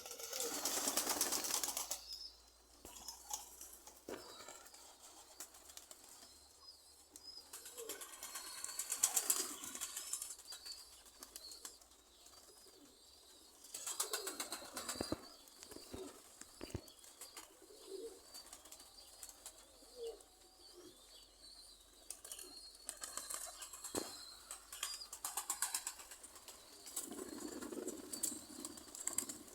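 A flock of domestic pigeons flying close by, their wings fluttering and whooshing as they pass in several separate surges, with quieter flapping in between.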